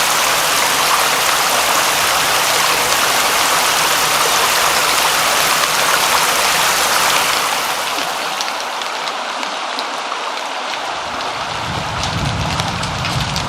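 Steady heavy rain hiss. About seven or eight seconds in it softens into lighter rain with separate drops tapping, and a low rumble comes in near the end.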